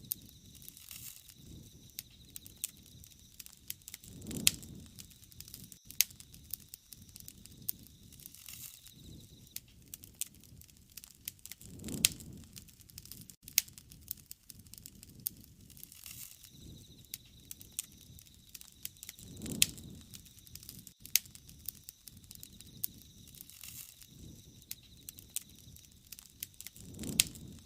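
Wood campfire crackling, with frequent sharp pops and snaps and a low swell of flame noise about every seven to eight seconds, four times.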